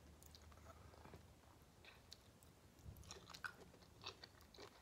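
Faint chewing with the mouth closed: soft, scattered wet mouth clicks that come more often in the last couple of seconds.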